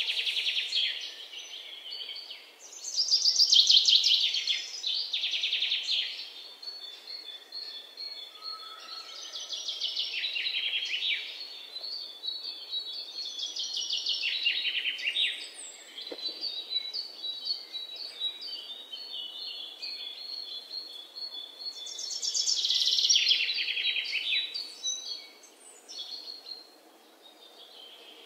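Small birds chirping and trilling in repeated high, rapid bursts, with thin chirps in between; the loudest bursts come about three to four seconds in and again a little past twenty seconds.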